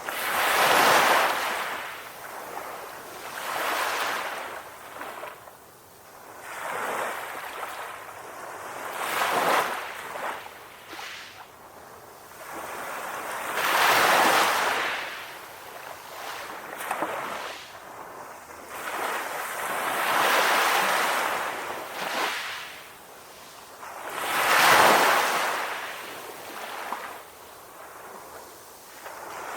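Calm ocean waves breaking and washing up on a shore, each surge swelling and fading, about one every four to five seconds.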